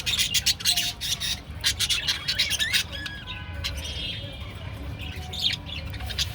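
Several budgerigars chattering, with quick chirps and squawks that come thickest in the first three seconds and give way to warbling calls.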